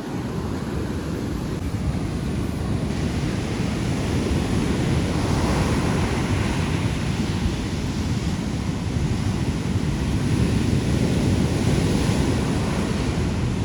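Ocean surf washing onto the beach, with wind buffeting the microphone: a steady rushing noise, heaviest in the low end.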